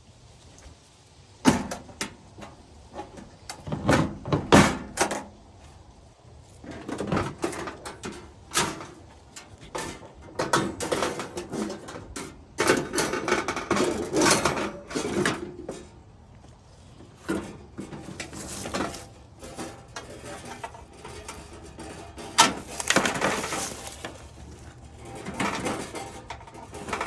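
Irregular knocks, clicks and clatter of objects being handled and set down, with rustling in between.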